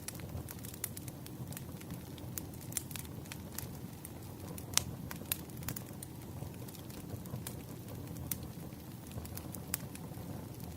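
Wood campfire burning with a steady low rumble and frequent sharp crackles and pops, the loudest about five seconds in.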